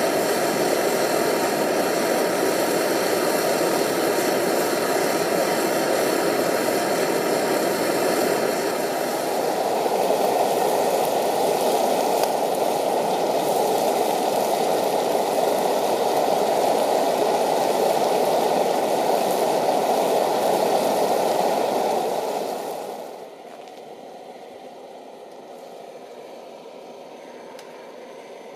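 Optimus 111B petrol pressure stove with its roarer burner running steadily at full flame. About 23 seconds in, the noise drops abruptly to a much quieter steady level.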